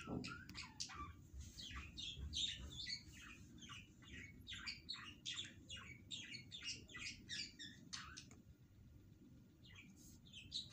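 Small birds chirping in quick, repeated short calls that stop for a while about eight seconds in, over a faint low steady hum.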